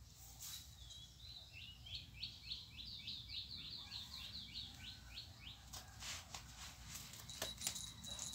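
A small bird singing a fast run of repeated sweeping chirps, about four a second, for roughly four seconds. A few short knocks follow near the end, over a faint steady high whine.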